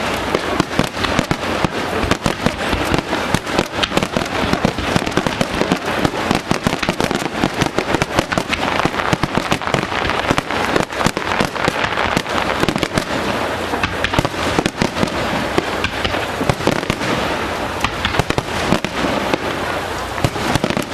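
Starmine fireworks barrage: shells launching and bursting in rapid, dense succession, many bangs and crackles every second without a break.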